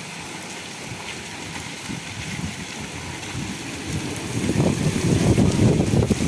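Heavy rain falling, a steady hiss, with a louder low rumbling rising from about four seconds in.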